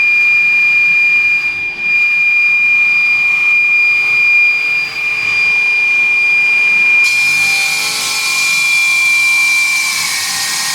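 Stone-cutting circular saw with a cantilever saw head running at speed, giving a steady high whine. About seven seconds in a harsh hiss joins it, and near the end the whine drops slightly in pitch.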